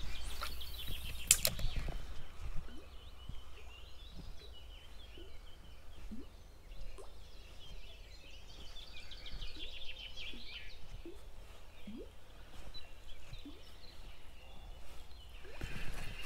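Small birds chirping and trilling, with a few sharp clicks in the first couple of seconds.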